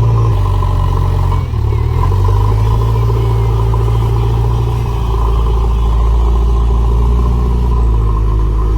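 Large diesel engine running steadily and loud, with a brief dip about one and a half seconds in.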